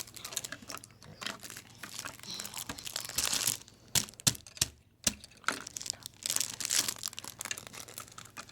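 Plastic Lego pieces and figures being handled: a steady run of small clicks, taps and rustling as the parts are moved and fitted.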